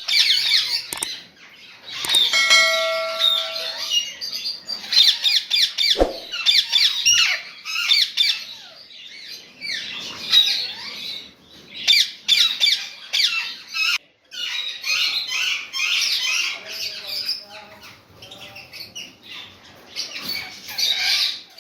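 Several parrots squawking and chattering in rapid, overlapping calls, with a brief steady whistled tone about two and a half seconds in.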